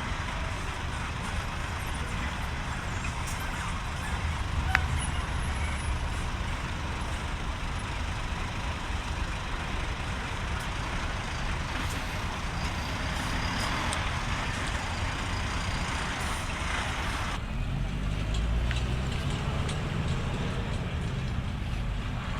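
Heavy diesel truck engines running as a steady low rumble with outdoor noise. About seventeen seconds in the sound changes abruptly to a deeper engine note that rises slightly.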